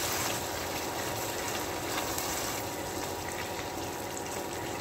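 Masala with cashew-and-raisin paste sizzling steadily in hot oil in the pan as it is fried.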